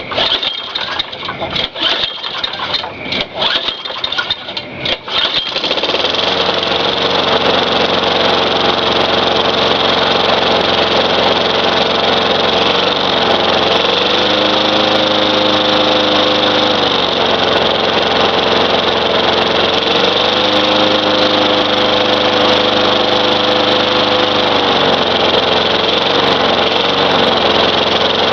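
Tecumseh 4.5 hp single-cylinder lawn mower engine being pull-started: uneven cranking and sputtering for about five seconds, then it catches and runs steadily. Its speed rises and falls twice while it runs, with diesel left in the cylinder burning off.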